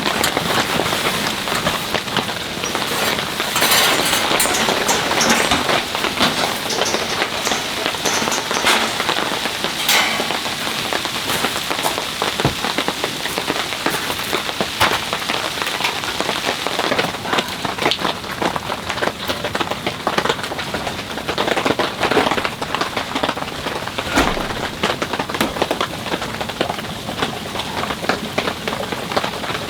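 Winter rain pouring steadily, with many single drops tapping sharply on a nearby surface over the constant hiss of the downpour.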